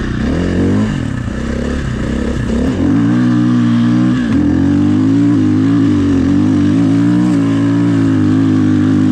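Dirt bike engine revving hard under heavy load in wet, slushy snow. The pitch rises and falls for the first few seconds, then holds at high revs from about four seconds in.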